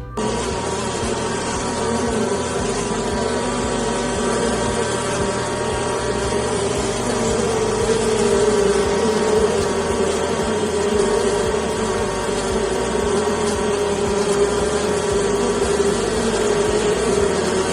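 Honeybees buzzing, a steady hum that wavers slightly in pitch.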